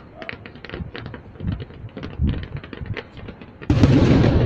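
Distant fireworks: a run of sharp crackling pops and a few low thuds, then a loud shell burst near the end that dies away slowly.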